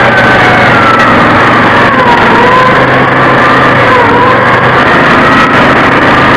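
Vehicle engine running with a steady whine whose pitch slides down and back up, dipping twice.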